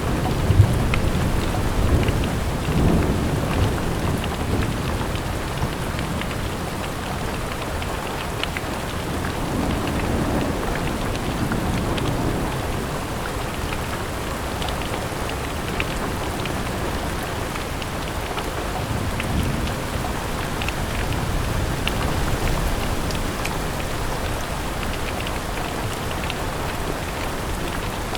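Steady rain falling on a window, with scattered drops ticking sharply against it. A low rumble of distant thunder swells and fades in the first dozen seconds.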